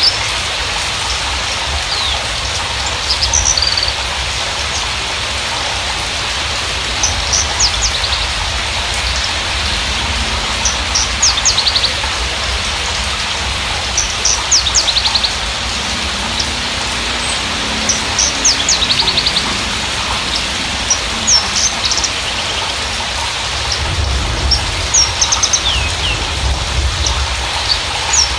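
Javan bushlark (Mirafra javanica parva) singing short, high chirping and trilling phrases every second or two over a steady hiss, with a low rumble underneath.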